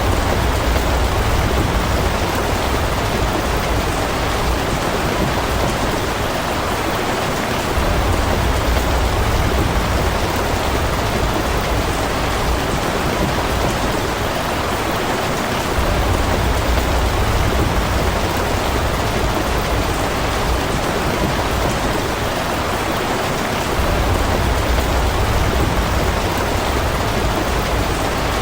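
Steady rain, a dense even wash of noise, with a deep low rumble underneath that swells and fades about every eight seconds.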